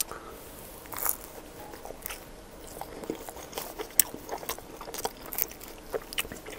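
Biting into a crisp, toasted steak-and-cheese quesadilla topped with sour cream and taco sauce about a second in, then chewing with irregular crunching clicks from the tortilla crust, close to the microphone.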